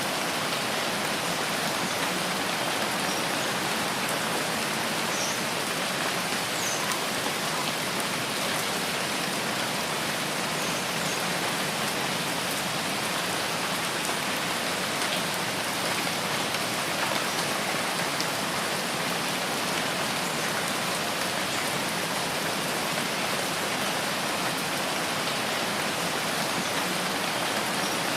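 Steady rainforest rain: an even, dense hiss of falling drops, with a few faint short high chirps now and then.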